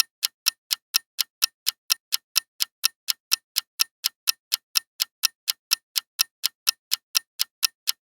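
Clock-ticking sound effect: fast, even ticks, about four to five a second, marking a countdown timer.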